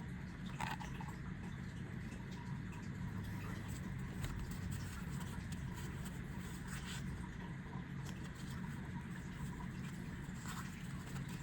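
Yu-Gi-Oh! trading cards being handled: soft scratchy sliding and light taps of cards against each other, with a few faint clicks, over a steady low hum.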